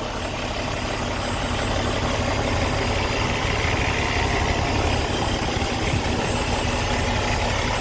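Kenworth T800's Cummins ISX inline-six diesel engine idling steadily.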